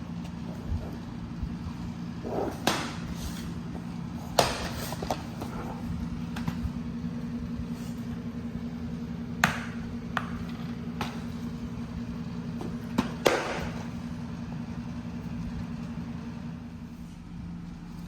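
Handling of a toy train's packaging during unboxing: several sharp clicks and taps, spaced irregularly, over a steady low hum.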